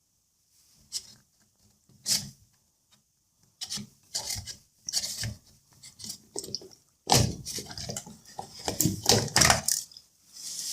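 Rubbing and scraping of the plastic drain-pump filter being worked loose from a Hotpoint Ariston washing machine, with a rag handled around it: scattered short scrapes and knocks at first, then a denser run of scraping and rustling for about three seconds near the end.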